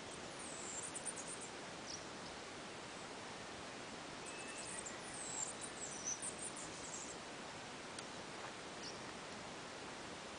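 Quiet outdoor ambience: a steady background hiss with small birds giving short, high chirps, in a cluster about a second in and again around the middle.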